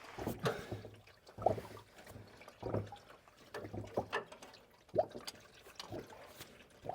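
Used engine oil draining from the LM2 Duramax's oil pan into a drain pan, running steadily with irregular splashes and knocks about once or twice a second.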